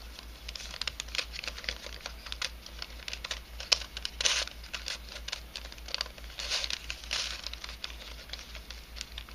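A 3D-printed nylon helicopter cube puzzle being twisted by hand: its pieces click and scrape against each other in an irregular run of small clicks and short rasps.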